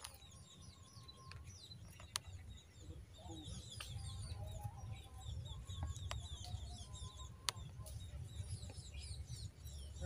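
Small birds chirping in many quick, high twitters, with a few sharp clicks and a steady low rumble underneath.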